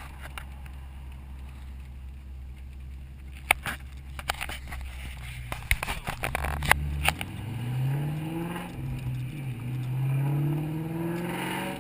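Mustang V8 engine heard from inside the car, cruising steadily at first, with scattered sharp clicks a few seconds in. From about seven seconds it accelerates, its pitch climbing, easing and climbing again.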